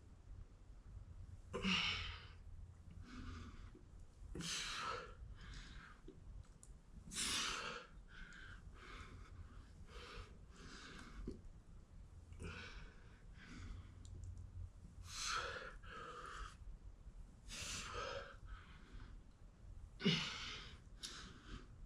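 A person breathing hard from exertion during a lifting set, with sharp breaths in and out every second or two, a few of them louder puffs.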